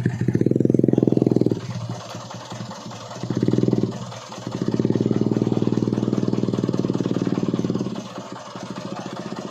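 Loaded truck's engine revved hard in three bursts, a longer one at the start, a short one after about three seconds, and a long pull of about three seconds from the middle, dropping back to a lower running note between them, as the truck strains to climb the slope.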